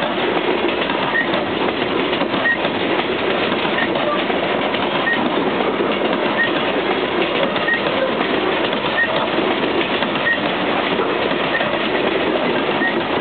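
Freight cars of a sulfur unit train rolling past: a steady, unbroken noise of steel wheels running on rail, with a short high chirp repeating about every 1.3 seconds.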